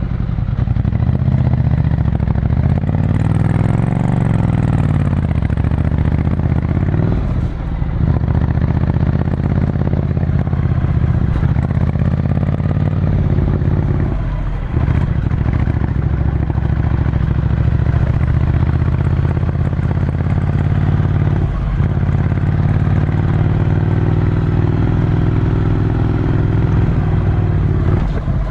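Ducati Scrambler Desert Sled's air-cooled L-twin engine heard onboard through a full Termignoni exhaust, running steadily under way. The revs rise and fall once in the first few seconds, and the engine note drops briefly three times, spaced about seven seconds apart.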